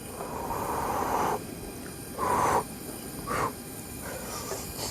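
Breathy mouth sounds of a man eating hot Maggi instant noodles: one long breath of about a second and a half, then two shorter ones.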